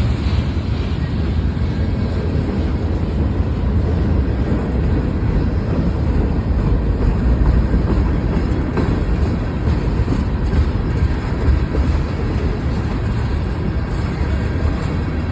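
Cars of a mixed freight train rolling past: a steady, loud rumble of steel wheels on the rails.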